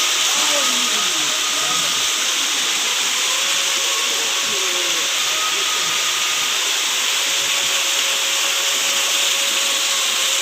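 Benang Kelambu waterfall: a steady, loud rushing hiss of water falling in many thin streams, unchanging throughout.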